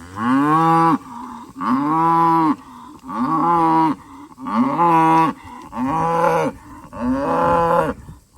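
Cattle mooing: six loud, drawn-out calls in a row, each about a second long, rising then falling in pitch.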